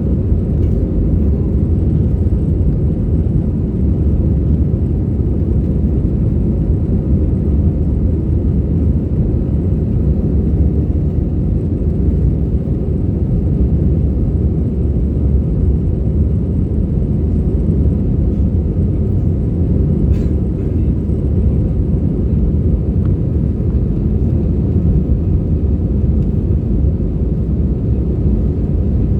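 Airbus airliner's jet engines and airflow making a steady, loud low rumble.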